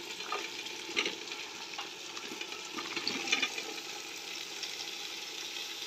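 Potato and cauliflower pieces tipped into a pot of hot oil and fried chicken masala, sizzling steadily, with a few light knocks of pieces landing in the first few seconds.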